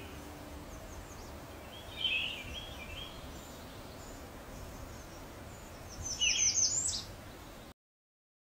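Small birds chirping over a steady background hum: a short burst of chirps about two seconds in, and near the end a quick run of high falling notes with a lower chirp. The sound cuts off suddenly shortly before the end.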